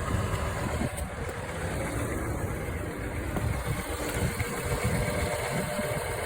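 Car engine running at idle, a steady low rumble.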